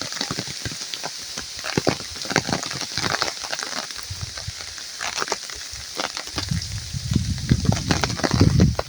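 Rain falling, with many drops striking close by as sharp ticks over a steady hiss. From about six seconds in a low, uneven rumble joins, loudest near the end.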